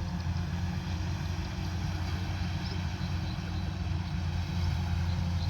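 Combine harvester running steadily at work, an even low engine drone with no change in pitch.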